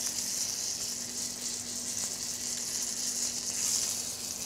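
Foie gras searing in a frying pan: a steady, even sizzle.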